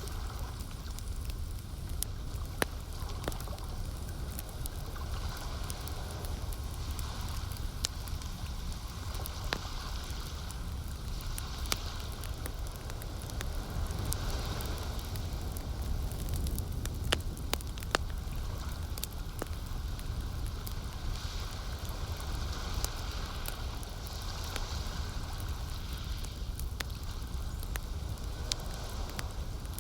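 Campfire crackling, with scattered sharp pops and snaps over a steady low rumble, mixed with the soft, swelling wash of lake water lapping.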